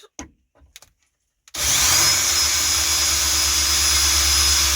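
A few faint clicks, then about a second and a half in a power drill starts and runs steadily with a high whine, its bit pressed against the car's floor sheet metal. The bit is not a very good one and is not cutting well.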